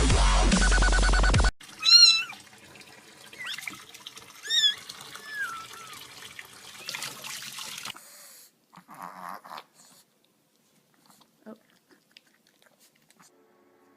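Dubstep music cuts off after about a second and a half, then a cat meows: a loud call, a second one a couple of seconds later and a short third, over a faint hiss; after that only a few faint clicks.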